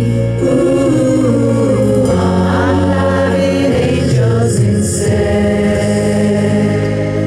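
Music: a choir singing long held notes over a steady low bass.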